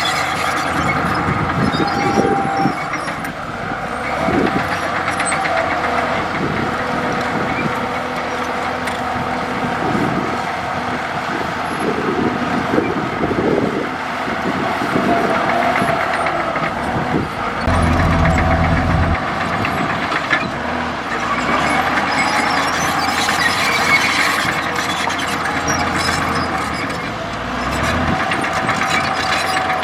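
Komatsu D65E bulldozer's diesel engine running under load while working, with a wavering mechanical whine and scattered knocks and clanks. The engine surges heavier for about a second and a half just past the middle.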